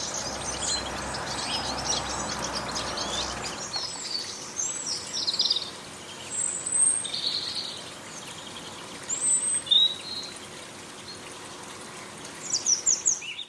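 Small garden birds chirping and calling: short, high chirps and brief call phrases scattered throughout, with a quick run of chirps near the end. A soft, steady hiss lies under the first few seconds.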